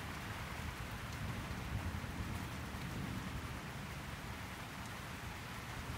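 Steady rain falling in a storm: an even hiss over a low rumble.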